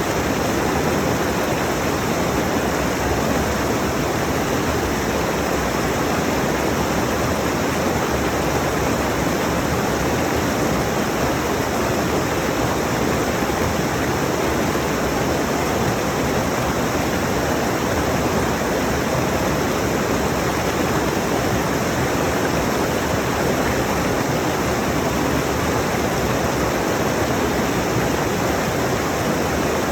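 Rushing mountain stream, water pouring steadily over rocks with an even, unchanging rush.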